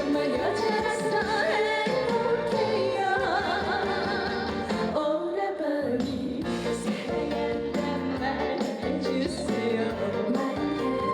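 A trot song performed live: a female singer's voice over a backing track through the stage sound system.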